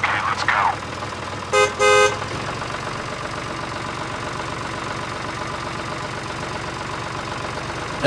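A vehicle horn gives two short toots about one and a half seconds in, over a steady engine running noise with a fast, even chug.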